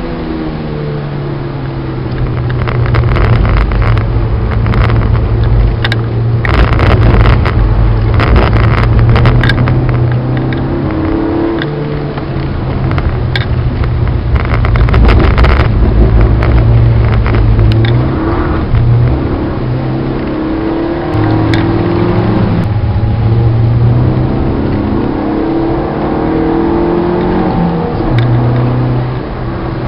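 Citroën Saxo VTS's four-cylinder engine heard from inside the cabin, revving up and dropping back several times through gear changes and lifts while lapping a race track, over a steady hiss of wet road and rain spray.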